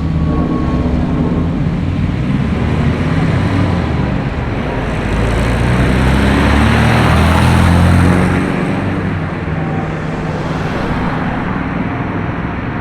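Road traffic with a car passing close, its engine and tyre noise building to a peak about seven or eight seconds in and then fading away.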